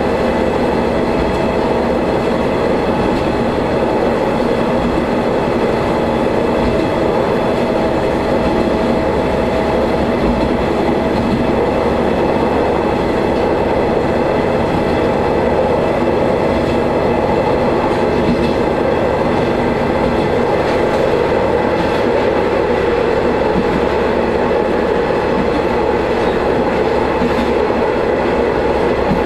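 Diesel railcar running steadily along the line, with the engine's drone and the rumble of wheels on rail heard from inside the car.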